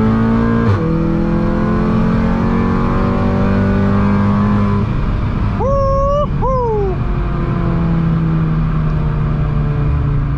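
Big-turbo tuned VW Golf GTI's turbocharged four-cylinder heard from inside the cabin, pulling hard in third gear with the engine note climbing steadily, then lifting off about five seconds in and settling to a lower, steadier note. Around six seconds in, a brief two-part tone rises and then falls.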